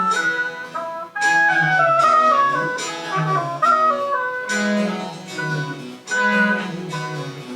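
French Baroque chamber music played live: a high woodwind melody over a lower bass line, phrased with short breaks about a second in and again near the end.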